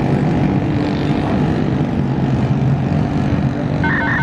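Diesel locomotive engine running with a loud, steady low drone as a train passes. A short run of rapid high beeps sounds near the end.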